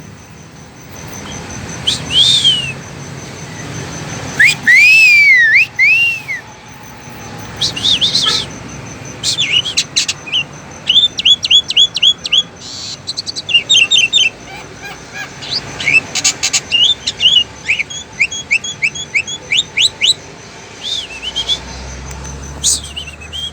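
A small tame bird chirping and singing: scattered high whistled notes and glides, then from about nine seconds in many quick runs of short, sharp chirps.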